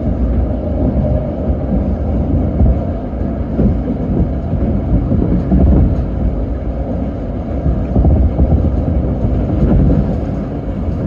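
Electric commuter train running at speed between stations, a steady low rumble of wheels and running gear heard from inside the front car.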